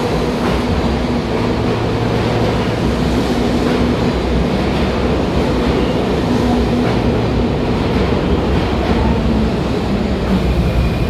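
New York City subway train at a station platform, a steady rumble with a low hum and no sudden events.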